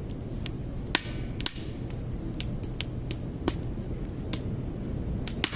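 Wood fire burning in a stainless-steel secondary-combustion fire pit: irregular sharp crackles and pops over a steady low rush of flame.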